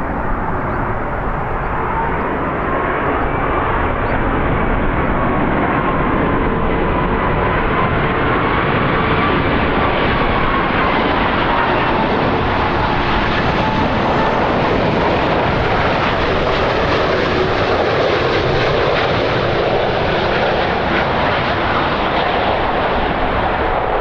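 Jet airliner engines running loud and steady at close range, a broad rushing noise with whining tones that slowly drift up and down in pitch.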